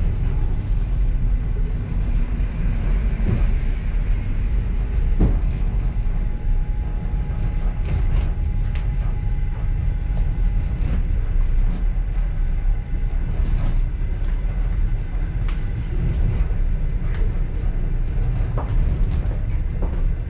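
Steady rumble of a moving passenger train heard from inside its last carriage, with scattered clicks and rattles and a faint steady whine through the middle.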